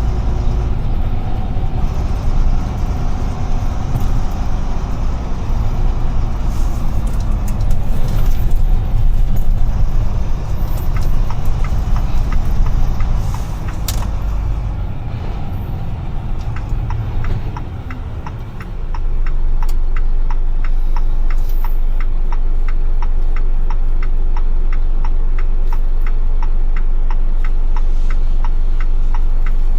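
Cab of a UD Trucks Quon heavy truck: diesel engine and road noise ease off as the truck slows, then settle to a steady low idle hum. Over the idle, the turn-signal indicator ticks evenly and steadily.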